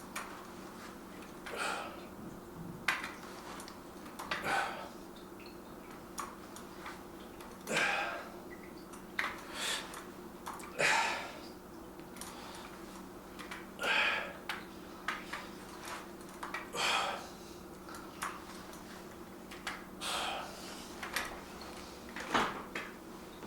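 A man breathing hard through a set of dumbbell curls, with a short forceful exhale every one and a half to three seconds, over a steady low hum.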